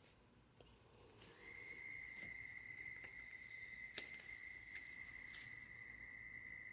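A steady, high-pitched single tone that starts about a second and a half in and holds level for about five seconds, with a few faint clicks over it; its source is unidentified.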